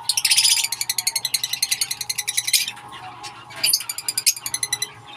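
Baby bird chirping: a rapid, high-pitched string of chirps for about two and a half seconds, then, after a short pause, another fast run near the end.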